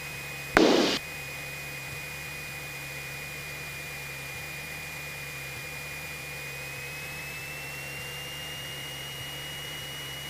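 Cessna 172SP's four-cylinder Lycoming engine droning steadily at reduced power while the aircraft turns onto base leg, with a steady high whine that steps up slightly in pitch near the end. A brief loud burst of noise sounds about half a second in.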